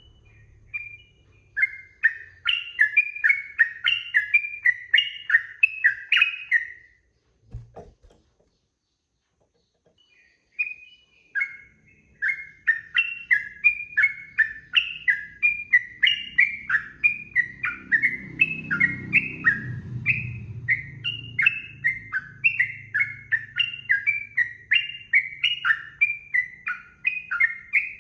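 Sooty-headed bulbul (trucukan) singing a fast, unbroken run of short whistled phrases. It stops after about seven seconds with a soft knock, and a few seconds later it starts again. A faint low hum lies beneath and swells briefly past the middle.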